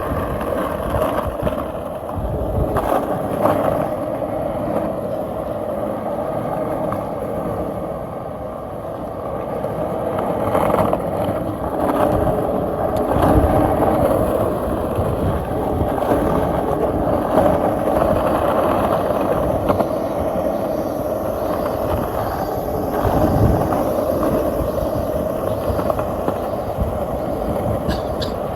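Skateboard wheels rolling over pavement: a steady rolling rumble with a few short knocks along the way.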